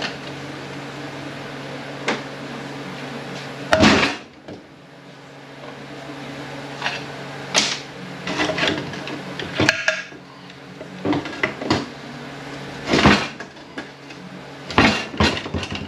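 Irregular clunks and metal knocks of automatic transmission parts being handled and set down during a teardown, over a steady low hum.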